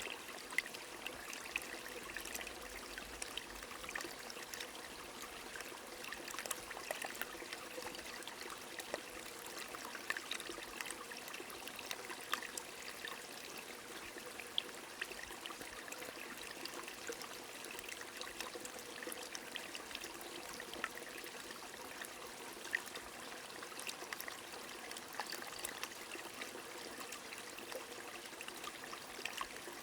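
A small stream trickling steadily, with rain adding scattered sharp drop ticks.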